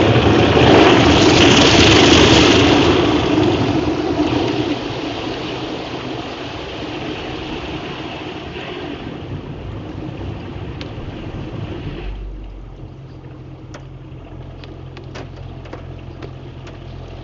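Automatic car wash machinery working over the car, heard from inside the cabin: a loud rushing wash that fades over several seconds and stops about twelve seconds in, leaving a low steady hum.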